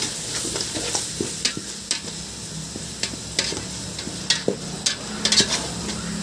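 Curry masala with ginger-garlic paste frying and sizzling in a pan while a spatula stirs it, with irregular sharp clicks of the spatula against the pan; the loudest clicks come about five seconds in.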